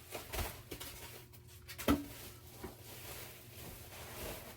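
Codep Stratosphere IV ceiling fan running on high: a faint steady low hum. Scattered clicks and knocks sound over it, the sharpest about two seconds in.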